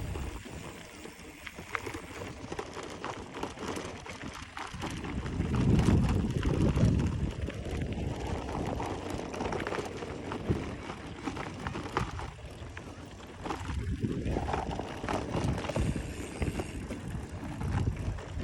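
Noise of a bicycle being ridden: an uneven low rumble that swells loudest about a third of the way in and again later, with many scattered clicks and rattles.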